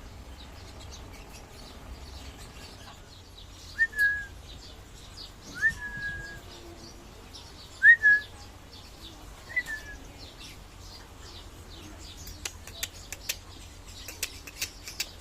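Birds calling: four clear whistles about two seconds apart, each sliding up and then holding a steady pitch, followed near the end by a quick run of short, sharp chirps.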